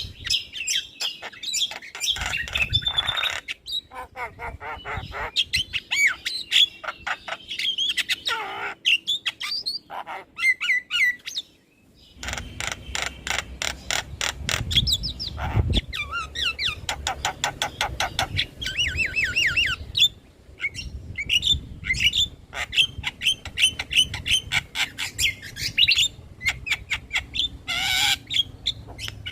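Javan myna singing a varied, chattering song: whistled glides, harsh squawks and fast runs of clicking notes, with a brief pause partway through.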